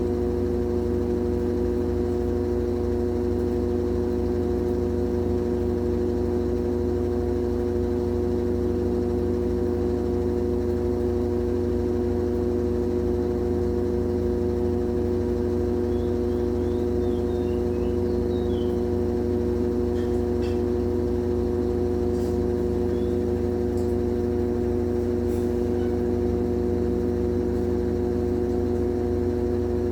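Consul 12 kg washing machine in its spin cycle, running with a steady hum and a constant whine: the strange noise the owner hears from the new machine when it spins.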